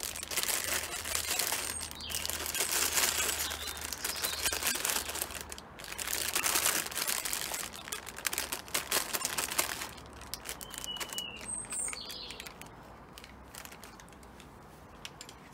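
Plastic bag of fat balls being crinkled and rummaged for about ten seconds, then a few short, high bird chirps as a bird sounds the alarm at the feeding.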